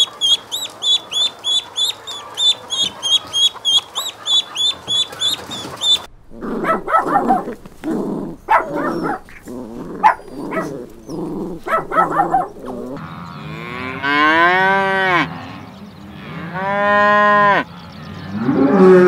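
Ducklings peeping rapidly, about four high chirps a second, for the first six seconds. Then comes a run of short dog barks and yelps. Near the end, cattle moo twice in long calls that rise and fall in pitch.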